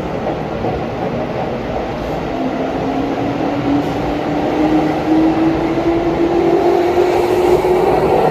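Keihan electric train's VVVF inverter and traction motors whining as it accelerates, the tone rising slowly in pitch over a steady running rumble, the whole growing a little louder.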